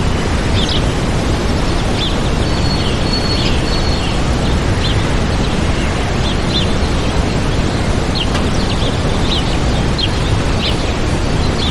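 Waterfall rushing steadily, with small birds chirping over it in short, scattered calls and one held whistled note a few seconds in.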